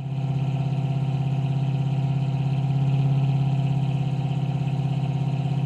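A vehicle engine idling steadily with a fast, even pulse. The sound cuts in and out abruptly.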